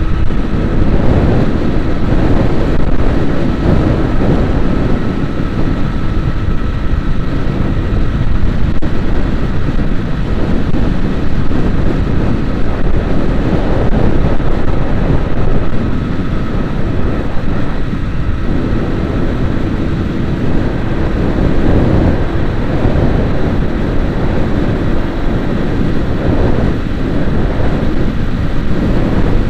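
A vehicle driving along a road: steady, loud rumble of engine and road noise.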